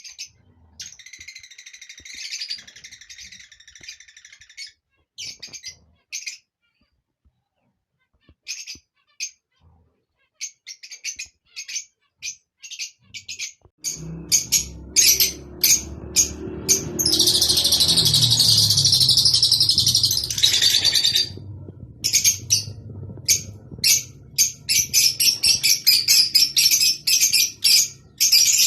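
Lovebirds' mating chatter: rapid, sharp, high-pitched chirps and twitters, dense for the first few seconds, broken into separate chirps after that, then dense again in the middle. About halfway in, a low rumble of background noise sets in beneath the chirping.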